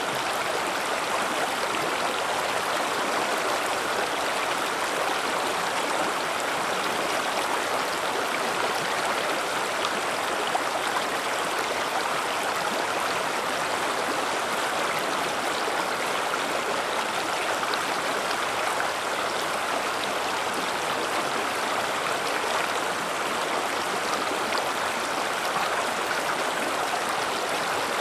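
River water rushing and gurgling over rocks, a steady splashing flow.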